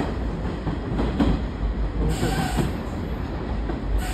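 Hanshin Railway commuter train running along a station platform, its wheels rumbling on the rails, with a brief higher screech about two seconds in.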